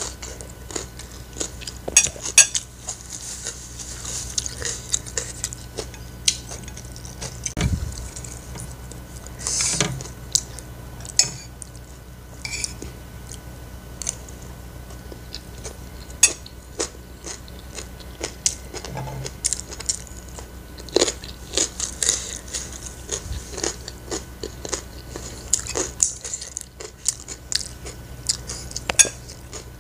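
A person chewing and smacking mouthfuls of food, with a metal spoon and fork clinking and scraping on a ceramic plate now and then. The sounds come as many short, irregular clicks and crackles.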